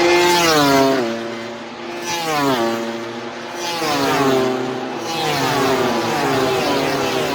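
MotoGP racing motorcycle engines running at high revs. The pitch drops sharply about a second in, again at about two and a half seconds and near five seconds, and climbs in between.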